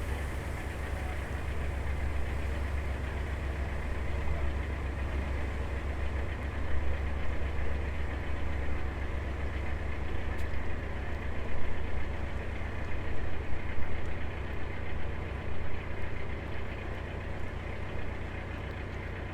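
Narrowboat's diesel engine idling steadily, a low even hum with a fast regular pulse, with some uneven louder noise over it in the middle stretch.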